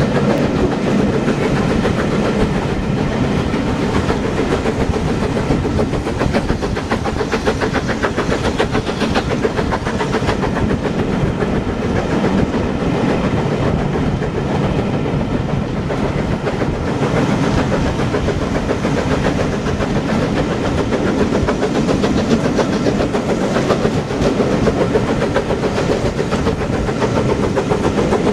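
Passenger train running steadily along the track, heard from a carriage window: a continuous loud rumble and rush of the coaches' wheels on the rails.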